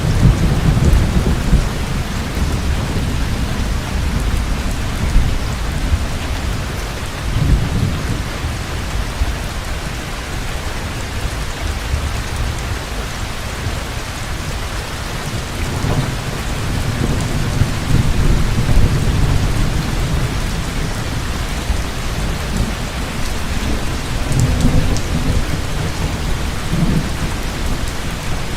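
Heavy rain pouring steadily, with low rolling thunder that swells and fades several times, most strongly at the start, about a third of the way in, and again past the middle and near the end.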